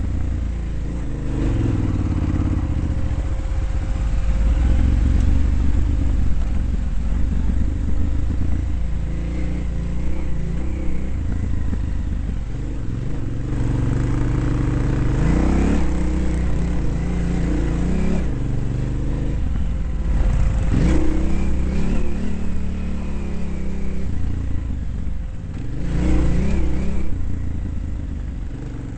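Dirt bike engine being ridden hard, revving up and dropping back again and again as the rider accelerates and shifts or backs off.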